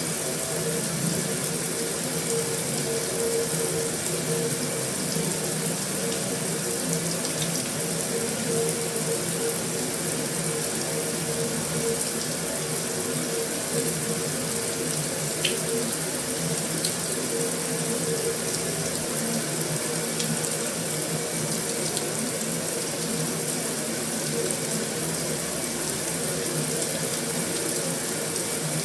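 Heavy rain falling steadily on a metal roof: a continuous even rush with a few faint ticks.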